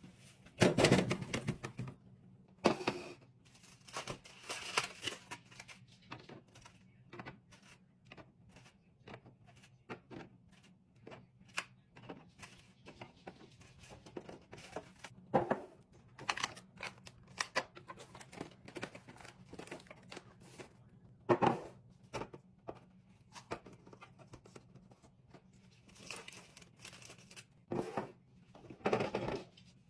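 Food packaging crinkling and tearing, mixed with many sharp, irregular clicks and knocks of containers and lids being handled and set down, over a faint steady low hum.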